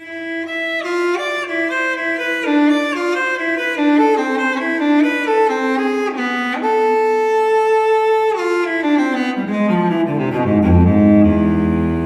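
Background music: a bowed string melody, cello-like, moving note by note, holding one long note in the middle and then sinking into low sustained notes near the end.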